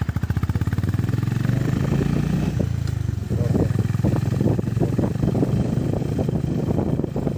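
Honda Highness CB350's single-cylinder engine running, with an even, rapid thump for about the first second that then turns more uneven.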